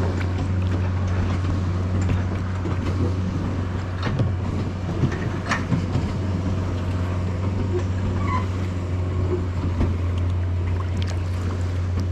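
Steady low drone of a boat engine running nearby, with water splashing and a few small knocks around the kayak.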